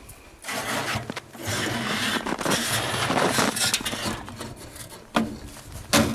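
Handling noise, rubbing and scraping, with two sharp knocks near the end.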